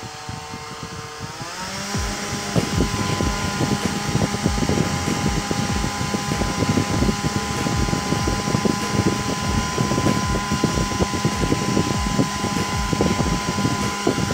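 Small battery-powered fan motor of a homemade air cooler, speeding up with a rising whine about a second and a half in, then running steadily at high speed with an irregular rattling, buffeting rush of air.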